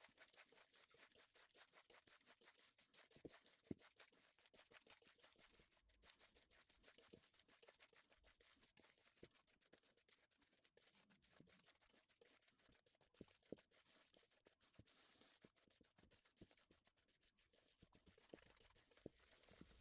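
Faint, continuous scratching with many small rapid clicks and a few sharper ticks.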